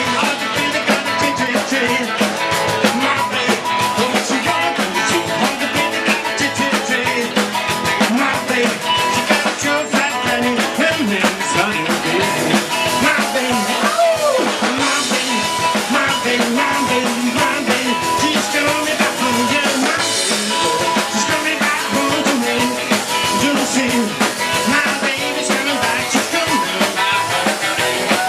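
Rock and roll band playing live, an instrumental stretch driven by a drum kit keeping a steady beat.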